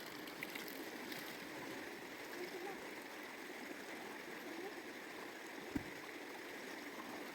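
Stream water running steadily, with a single dull thump a little before the end.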